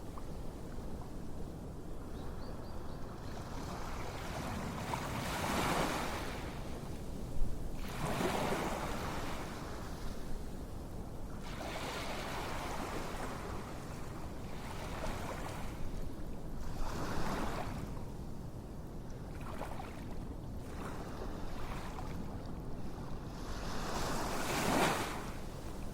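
Ocean waves washing in, each swelling and fading every few seconds over a steady hiss, with one sharp click a little past seven seconds in.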